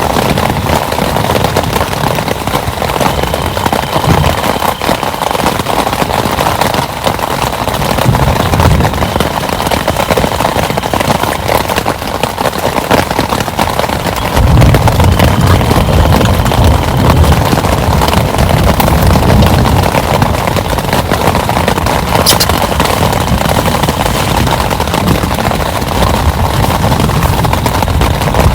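Heavy rain falling in a dense, crackling patter of drops. A stronger low rumble joins about halfway through and carries on.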